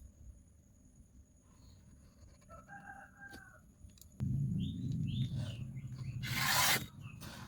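A rooster crows faintly about three seconds in, with a few short bird chirps after it. About four seconds in, a louder low, steady hum starts abruptly and carries through, with a brief loud hiss near the end.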